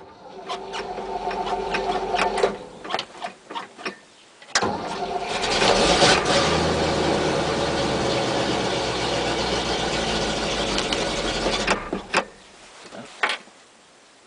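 Starter cranking the cold 350 V8 of a 1976 GMC C6000 truck in two tries: a short crank of about two and a half seconds, then, after a pause, a longer and louder crank of about seven seconds that stops suddenly near the end without the engine settling into a steady idle.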